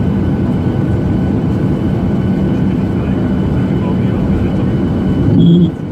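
Steady rumble of a Boeing 737-800's jet engines and airflow heard from inside the passenger cabin, with a brief louder sound near the end.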